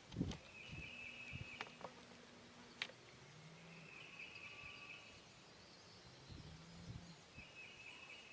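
Faint spring woodland background: a high, buzzy trill lasting about a second, repeated roughly every three seconds, typical of a small songbird singing. A few soft clicks and low thumps come through near the start.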